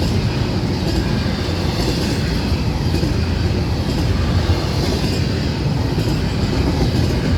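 Florida East Coast Railway freight train of empty flatcars rolling past: a steady rumble of steel wheels on the rails with faint rhythmic clicking.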